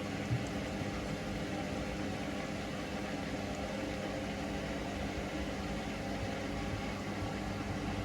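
Hoover Link washing machine on its final spin, set to 1000 rpm, its drum turning at a steady speed with an even motor hum.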